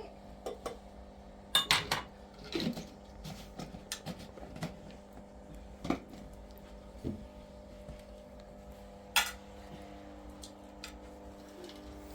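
Dishes and cutlery clinking and clattering now and then, with a few sharper knocks, over a steady low hum.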